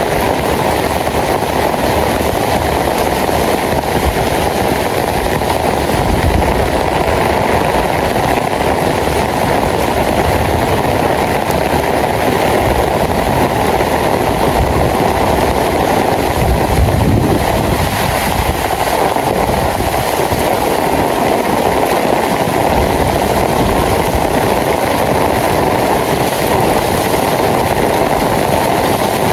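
Steady rain falling, a loud, even hiss that does not let up, with a brief low rumble about seventeen seconds in.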